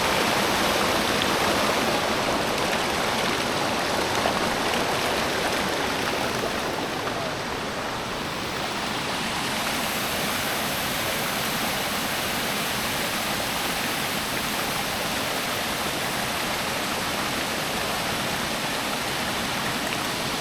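Steady rush of water from a waterfall cascade, a little softer for a moment about seven seconds in.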